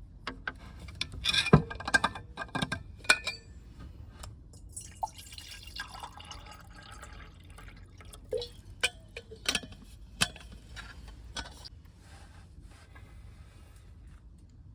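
Clinks, taps and knocks of small objects being handled, with a busy cluster of ringing clinks a couple of seconds in, along with liquid sounds.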